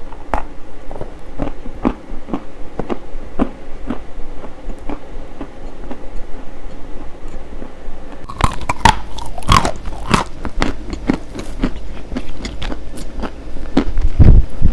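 Close-miked biting and crunching of something brittle: sparse crisp cracks that become louder and denser about eight seconds in.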